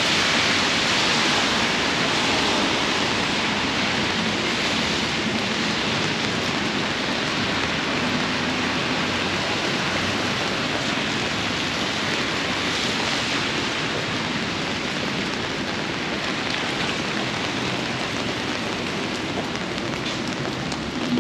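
Heavy rain falling steadily, an even, continuous hiss with a few sharp drop ticks near the end.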